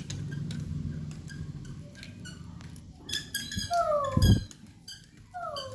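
Baby parrot making short squeaky chirps and falling whistled squeaks, with many light clicks and taps around them and one dull thump about four seconds in.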